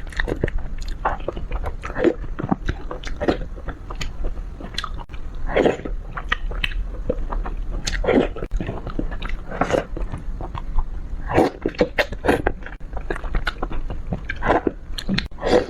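Close-miked eating of fish: biting and chewing, with many small wet mouth clicks and a louder bite or smack every second or two.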